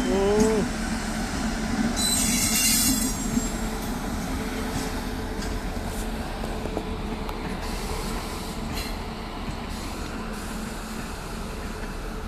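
Electric locomotive and LHB passenger coaches rolling past on the rails: a steady running rumble with a steady hum, a short rising-and-falling tone right at the start, and a loud high hiss about two seconds in. The rumble slowly eases as the coaches go by.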